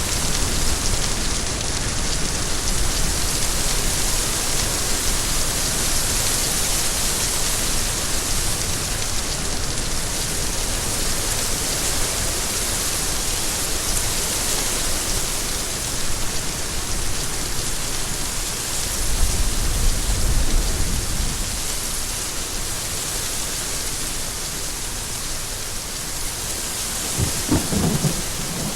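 Steady heavy rain, an even hiss of many drops. About two-thirds of the way through a low rumble swells for a couple of seconds, and a short louder low sound comes near the end.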